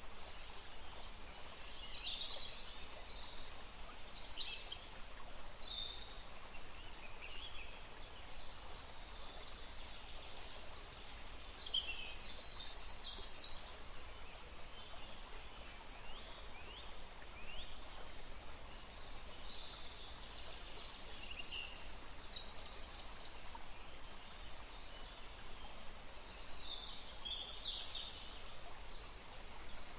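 Many small birds chirping and calling in short, overlapping phrases throughout, over a steady rushing background of wind in trees and running water.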